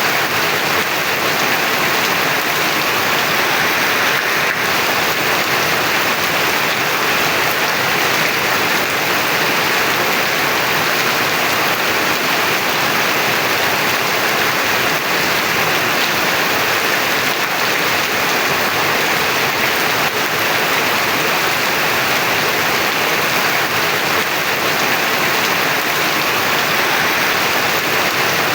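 Heavy rain pouring down, a dense, steady hiss that keeps an even level with no let-up.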